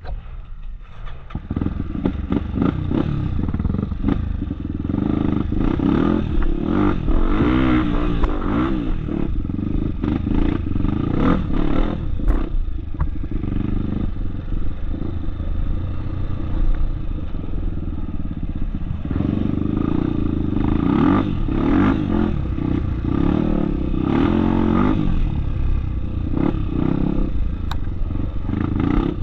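Off-road trail motorcycle engine running and revving up and down, with frequent knocks and rattles; it picks up about a second and a half in.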